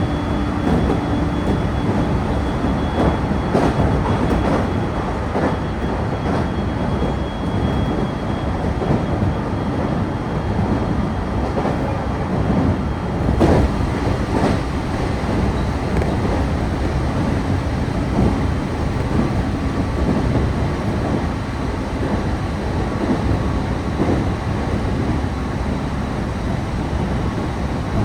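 Passenger train running along the line, heard from inside the carriage: a steady rumble of wheels and car body, with an occasional clack of the wheels over rail joints.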